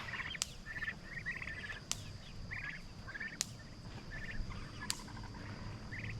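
A flock of turkeys calling with short, trilled chirps, about two a second.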